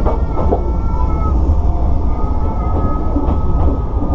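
Sotetsu 9000 series electric train running, heard from inside the car: a steady low rumble with a thin, high, steady squeal and a few sharp clicks of the wheels. The clicks fit wheels crossing points and rail joints where the line joins another, a stretch announced as rough riding.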